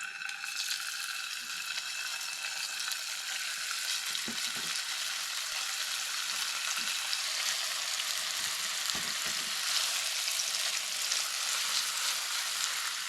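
Food sizzling steadily in a hot frying pan, with a few soft knocks of a utensil in the pan.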